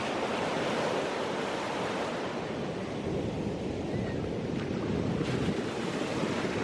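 Ocean surf washing onto a beach: a steady rush of waves, with wind buffeting the microphone.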